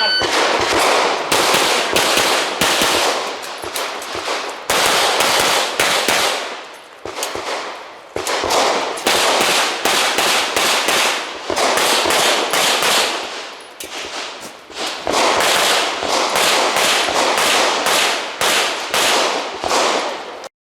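Rapid strings of gunshots, one after another with echo between them, broken by short pauses, as a USPSA shooter fires through a stage.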